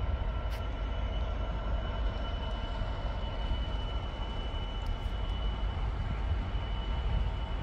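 A diesel train at the platform running steadily: a continuous low engine rumble with a thin high whine held on one pitch.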